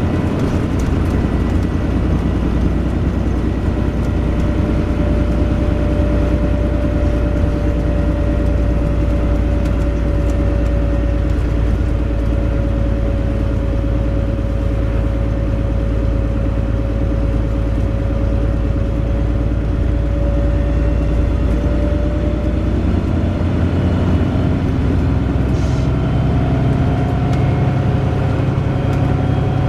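Wright Pulsar Gemini 2 double-decker bus running in service, heard on board: a low engine drone under a steady whine. Near the end the whine and drone shift and rise, as the bus changes speed.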